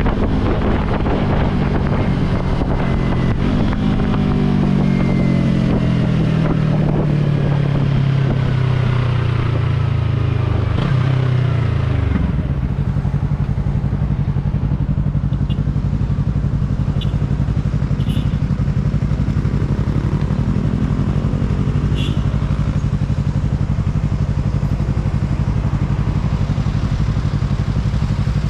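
Yamaha R3 parallel-twin motorcycle engine with its pitch falling steadily as the bike slows for about twelve seconds, with wind rushing past, then settling into a steady idle. A few light clicks sound during the idle.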